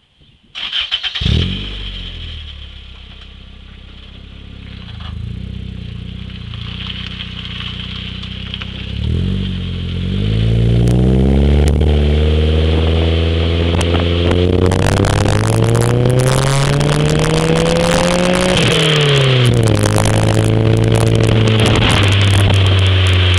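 A 1996 Toyota Corolla's 1.8-litre 7A-FE four-cylinder through a TRD exhaust with 2 1/4-inch piping, starting up about half a second in with a loud burst, then idling. From about nine seconds in it is revved and held at raised revs, climbing slowly, dipping a little about eighteen seconds in and holding steady again.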